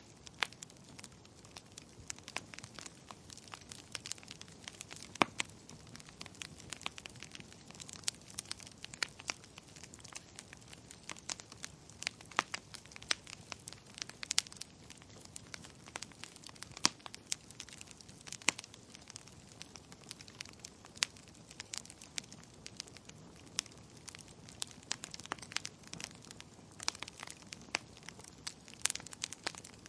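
Wood fire in a fireplace crackling, with frequent irregular sharp pops and snaps over a soft, steady low rush.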